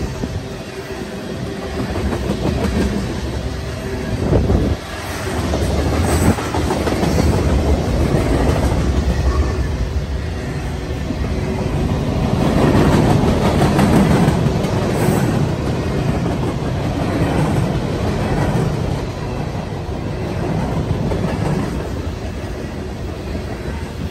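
Freight train rolling past, a continuous rumble and rattle of its cars that swells louder around the middle.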